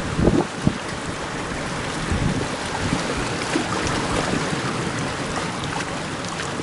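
Strong gusty wind buffeting the microphone over the steady rush of sea and surf, with heavier gust thumps about half a second in.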